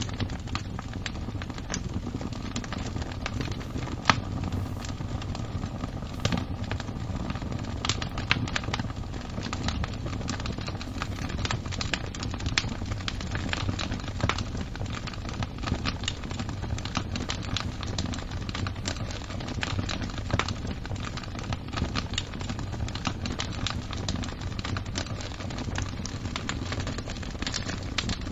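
Wood fire crackling: dense, irregular sharp pops and snaps over a low steady rumble, with one louder pop about four seconds in.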